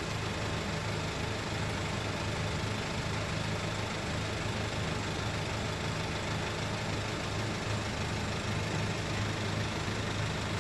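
Dump truck's diesel engine running steadily under way, heard from the cab as an even low drone.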